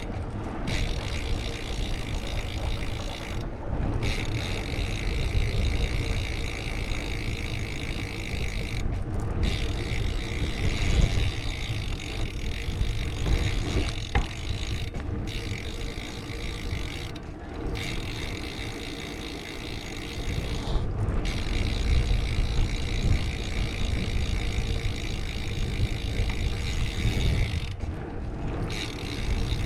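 Wind noise buffeting a GoPro Hero 8 Black's microphone during a bicycle ride, a steady low rumble under a hiss of tyre and road noise, with the hiss briefly cutting out every few seconds.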